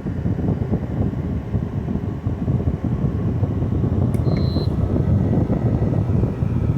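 LG 6000 BTU window air conditioner running, its fan blowing a steady rush of air, with a click and a short electronic beep about four seconds in as the unit is switched off.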